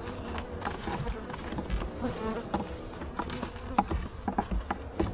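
Honeybees buzzing around an open hive, a steady hum, with a few light knocks and clicks in the second half.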